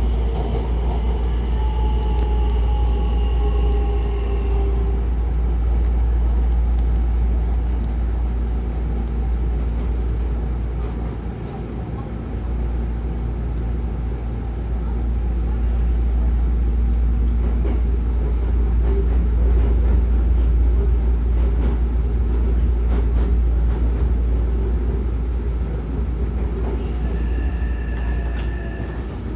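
Hankyu Takarazuka Line electric train running, heard from inside the car: a steady low rumble of wheels on rail. In the first few seconds a motor whine falls slightly in pitch, and near the end two faint steady tones sound.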